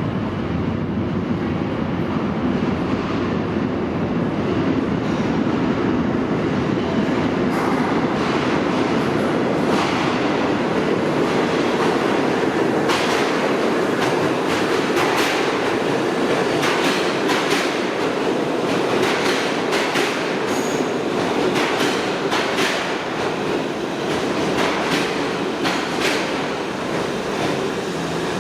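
R68 subway train running into an underground station with a steady rumble. From about eight seconds in, the wheels clack rapidly over rail joints.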